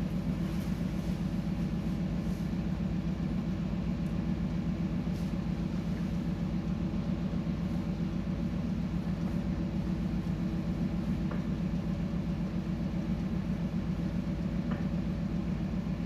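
Steady low drone of a ship's engine under way, an even hum with a fast pulsing throb that does not change.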